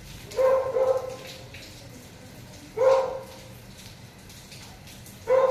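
A dog barking: a quick pair of barks, a single bark about two seconds later, and another near the end.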